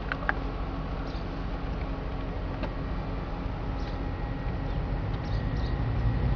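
Cadillac 4.6L Northstar V8 idling steadily, heard from inside the cabin, with two quick clicks right at the start as a climate-control button is pressed.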